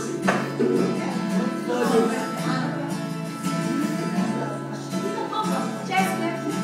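Music played on a plucked acoustic guitar.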